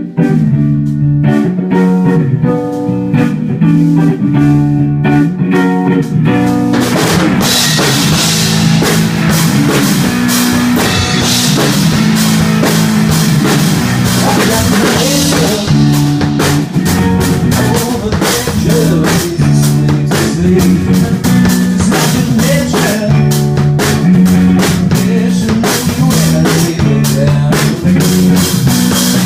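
Band playing a song on drum kit and guitar, starting at full volume; cymbals come in and the sound fills out about seven seconds in.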